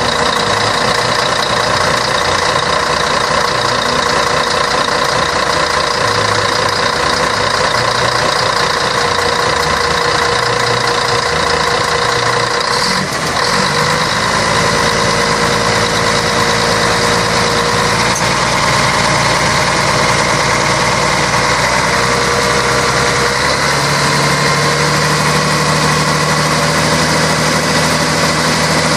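Scania K113 bus's 11-litre six-cylinder diesel engine running steadily. Its sound dips briefly about halfway through and shifts to a lower, steadier hum near the end.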